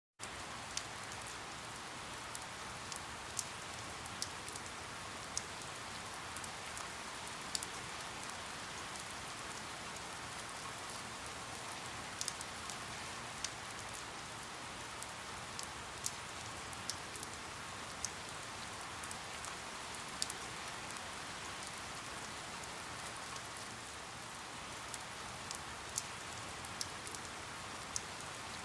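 Steady rain falling, an even hiss with scattered sharp drips and taps of individual drops landing on a surface, about one every second or so.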